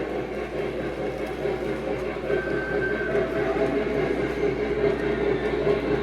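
Lionel O gauge Western Maryland 1309 model Mallet steam locomotive running steadily on the track: motor and wheels on rail mixed with its onboard sound system's steam running sounds.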